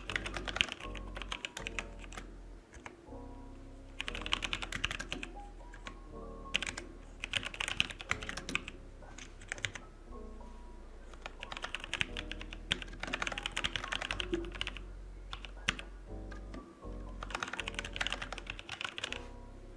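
Typing on a computer keyboard in bursts of rapid key clicks a few seconds long with short pauses between, over soft background music.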